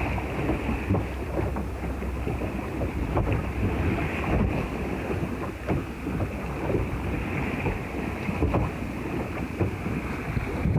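Wind buffeting the microphone over water lapping and splashing against the hull of a small sailboat under way, with short splashes scattered throughout.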